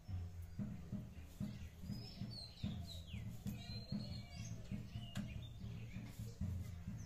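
Small birds chirping and twittering, with quick rising and falling calls and a short trill in the middle, over a low beat at about two pulses a second.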